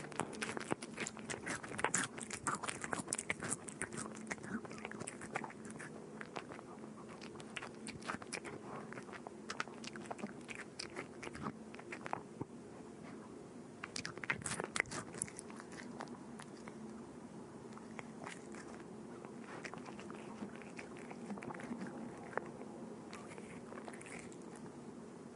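A cat eating, chewing and crunching its food in a quick, irregular run of small crunches. The crunches are densest in the first few seconds and again around the middle, and sparser toward the end.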